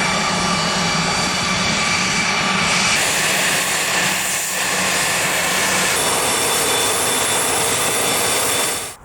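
Business jet engines running with a steady high whine. The sound is three short segments that change abruptly about three and six seconds in, then cuts off sharply at the end.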